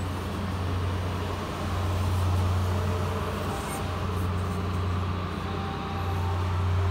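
Boxcars of a freight train rolling past, a steady low rumble that swells and eases.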